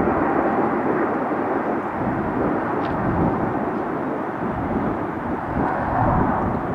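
Jet airliner engine noise, a steady loud hiss, with wind buffeting the microphone.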